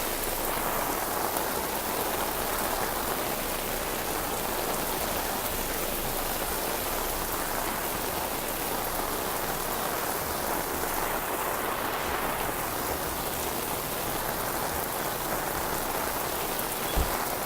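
Steady rain falling, an even hiss with no letup, and a single brief low thump near the end.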